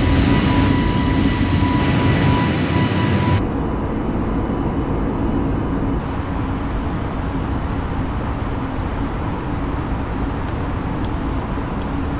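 Airbus A320neo engine and airflow noise heard from inside the cabin: a steady rush with a high whine that stops abruptly about three seconds in, leaving a lower, even rush with a steady low hum.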